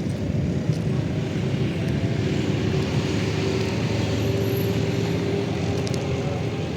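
A motor vehicle's engine running at a steady, even drone, with no sudden events.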